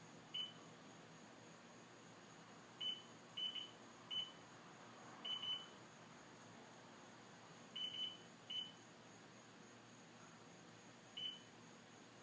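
Warning buzzer of an STX15F giving short, high beeps at uneven intervals, some in quick pairs, with the battery disconnected and the ignition off. The owner takes this for the sign of a bad voltage regulator.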